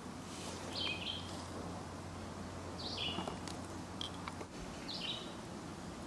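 A bird calling three times, short two-part calls about two seconds apart, over a steady outdoor background hiss.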